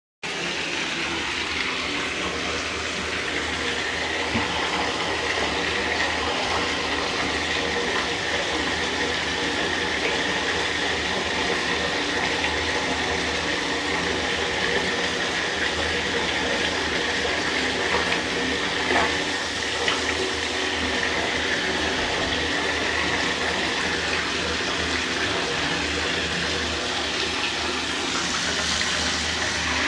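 Shower running steadily, water spraying down, with a couple of brief knocks about two-thirds of the way in.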